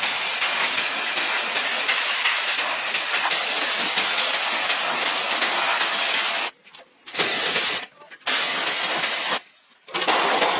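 Loud steady hiss that stops abruptly about six and a half seconds in, comes back in two short bursts, then starts again near the end.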